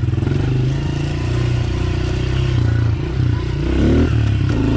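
Dirt bike engine running under way, heard from an onboard camera, with the pitch climbing as it revs up about three and a half seconds in.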